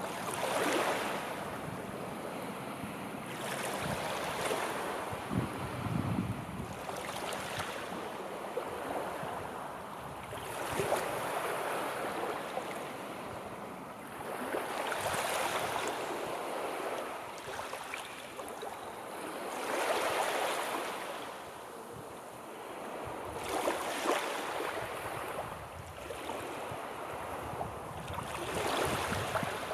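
Sea waves breaking and washing in, a steady rush of surf that swells about every four seconds.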